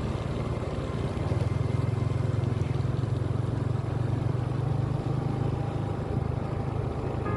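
Motorcycle engine running steadily under way, a low rapid pulsing with road and wind noise over it.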